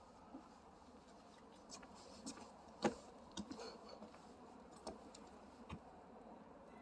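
Scattered faint clicks and taps at irregular intervals, the loudest about three seconds in, over a low steady hiss.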